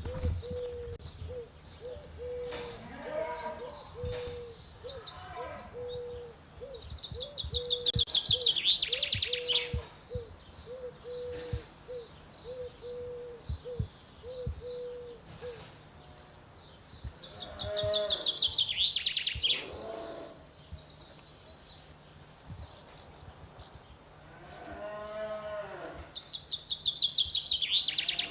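A songbird singing a fast trill that falls steadily in pitch over two or three seconds, three times with long pauses between. Cattle moo in between, and a low note repeats about twice a second through the first half.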